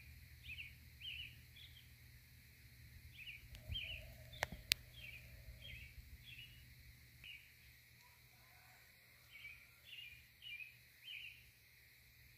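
A small bird chirping outdoors, short high chirps about two a second in runs with brief pauses, over a faint low rumble. Two sharp clicks about four and a half seconds in are the loudest sounds.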